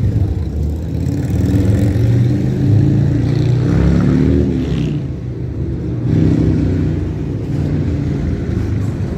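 A heavy vehicle engine running loudly, its pitch rising and falling through the middle of the sound.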